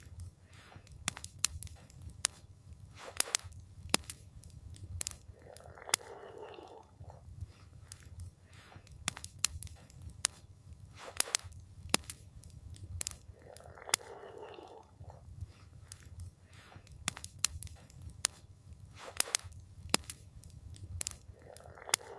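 Campfire crackling with frequent sharp pops over a low rumble of burning wood, and a soft rush of noise about every eight seconds.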